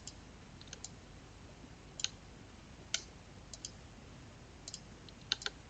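Computer mouse clicking, about ten sharp clicks spread out, several of them in quick pairs, over faint steady hiss.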